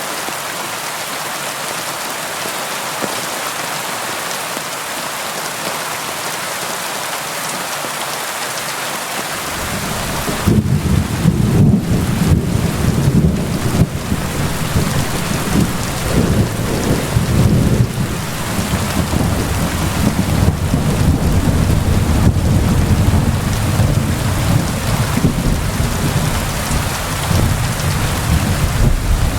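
Steady rain with an even hiss. About ten seconds in, a long rumble of thunder rolls in under the rain and keeps rumbling, swelling and easing.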